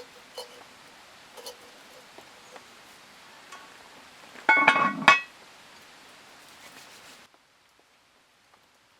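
Steady rain with scattered drips, broken about halfway by a brief burst of ringing clinks of tableware being handled. The sound then cuts off abruptly to near silence.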